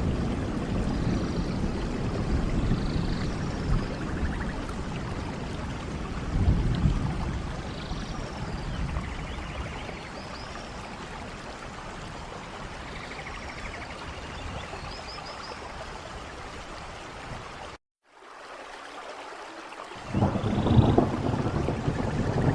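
Steady rain with low rolling rumbles of thunder and a few faint high chirps. Near the end the sound cuts out completely for a moment, then comes back with a louder rumble.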